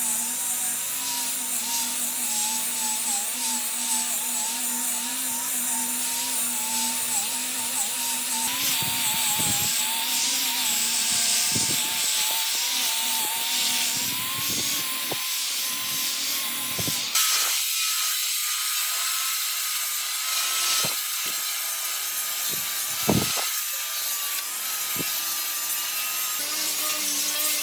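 Handheld electric power tool working on wood, a steady motor whine over the hiss of abrasion. The whine steps up in pitch a little past halfway.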